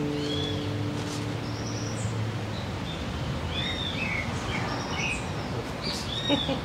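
A classical guitar's last strummed chord dies away over the first two seconds, then small birds chirp again and again over steady outdoor background noise.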